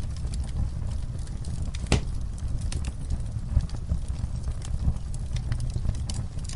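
Wood fire crackling, with irregular sharp pops over a steady low rumble of the flames and one louder pop about two seconds in.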